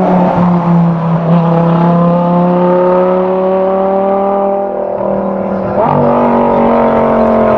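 A performance car engine running under load, its pitch climbing slowly, then changing abruptly about six seconds in.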